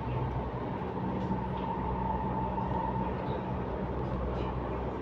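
MTR Tuen Ma Line C-train running along the line: a steady rumble with a faint high whine held at one pitch.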